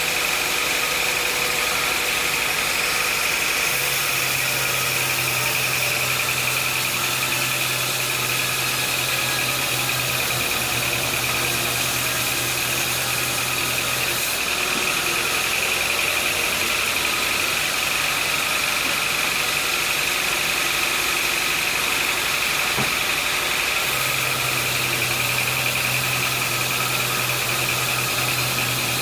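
Sawmill machinery running steadily, with a constant high whine over a loud machine noise. A low hum comes in about four seconds in, drops out at around fourteen seconds, and returns about five seconds before the end.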